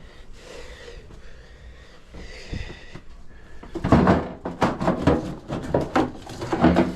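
A quiet stretch, then from about four seconds in a rapid, irregular run of knocks and clatter, the sound of hard objects being handled and set down.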